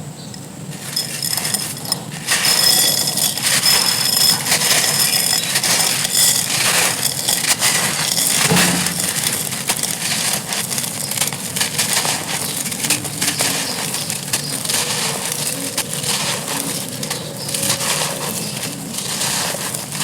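Dry, gritty clay pot crumbling and being crushed: a dense run of crackles and gritty crunches that starts about a second in and grows louder about two seconds in.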